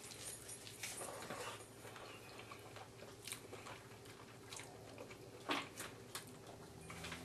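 A man biting into and chewing a piece of smoked chicken thigh, faint, with scattered soft mouth clicks and smacks; the loudest comes about five and a half seconds in.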